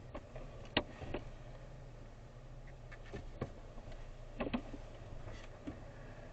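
Inside a car: a steady low engine hum with a few irregular sharp clicks and taps, the loudest about a second in and again near two-thirds of the way through.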